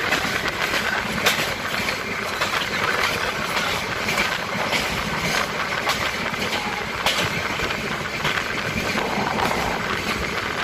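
Steady running noise of the Poorva Express passenger train under way, heard from inside the coach: wheels rumbling on the rails, with a few sharp clacks at rail joints.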